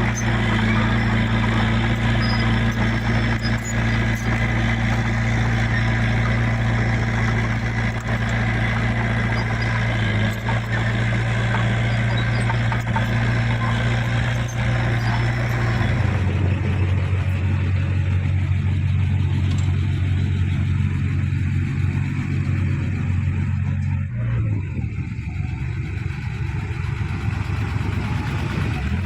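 Heavy diesel engine of earthmoving machinery running steadily under work. About 16 seconds in the engine note shifts and the higher mechanical clatter drops away, with another brief change around 24 seconds.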